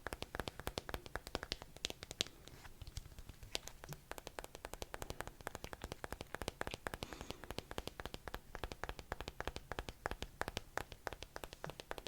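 Rapid, uneven clicking and tapping very close to the microphone, many sharp clicks a second without pause.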